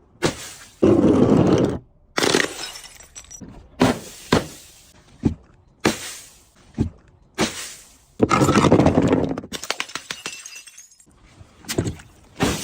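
Brittle objects being crushed and breaking: a run of about a dozen sudden cracks and snaps at irregular spacing, three of them drawn out into crunches lasting about a second.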